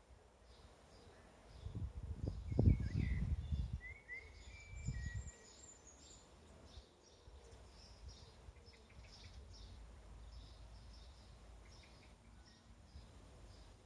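Outdoor nature ambience: birds give a few short chirps over a faint steady insect buzz. A few low rumbles between about two and five seconds in are the loudest sound.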